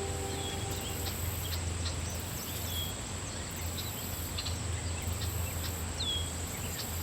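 Outdoor ambience: a steady low hum with faint, short bird chirps scattered through it, a few of them brief downward-slurred calls. The last notes of guitar music die away about a second in.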